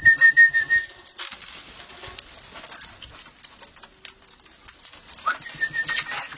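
Wild parrots calling and chattering with short high chirps while being fed by hand. A whistled note rises and then holds with a quick pulsing flutter for about a second at the start, and again near the end.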